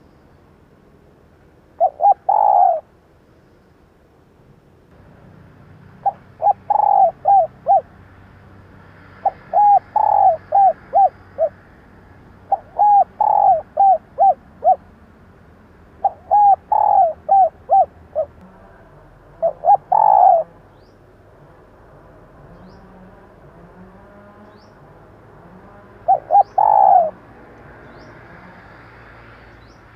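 Female spotted dove cooing: seven phrases of several quick coos each, one every three or four seconds, with a longer pause about two-thirds of the way through. It is the call used to rouse male doves into calling.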